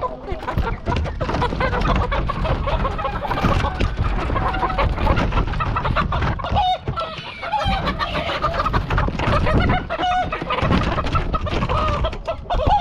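A flock of chickens clucking and squawking over one another, with scattered knocks and clatter mixed in.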